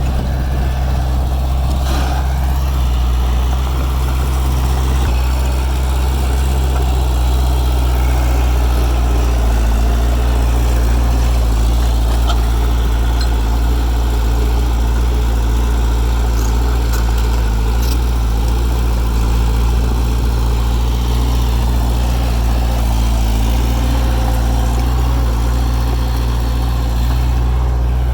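Heavy diesel engine of earthmoving machinery running steadily with a deep, even drone, with a few faint clicks and knocks over it.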